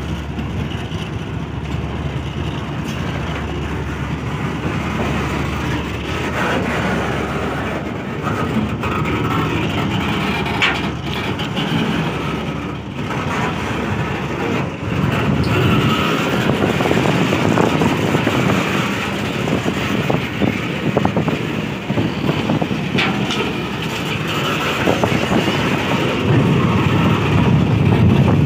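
Freight train tank and hopper wagons rolling past at close range as the train pulls away: a steady rumble of wheels on rail that grows louder in the second half, with occasional sharp clanks from the wagons.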